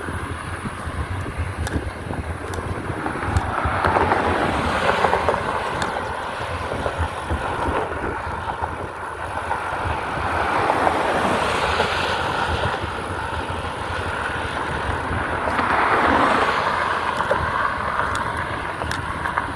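Wind buffeting the microphone during a bicycle ride: a fluttering low rumble under a steady rush of noise that swells three times.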